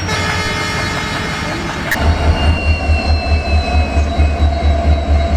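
Train running past at speed: continuous rumble and rattle of wheels on rails with high steady whining tones. About two seconds in, a regular low pulsing of roughly four to five beats a second sets in.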